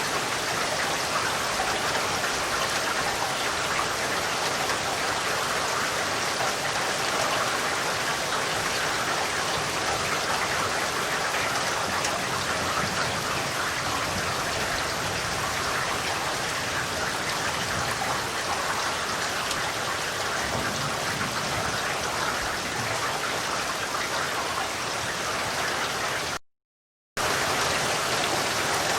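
Steady rain falling, a dense even hiss of drops. The sound cuts out completely for about half a second near the end.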